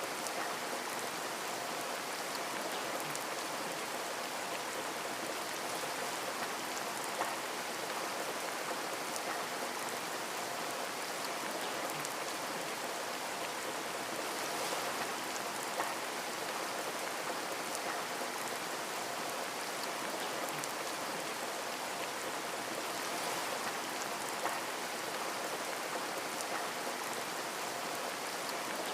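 Steady rain falling on a window, with scattered drop ticks and a few louder single drops.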